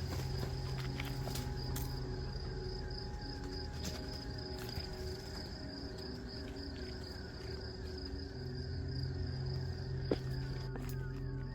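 Background music of held low bass notes and short repeated mid notes, the bass dropping out for a few seconds in the middle, over a steady high insect-like trill.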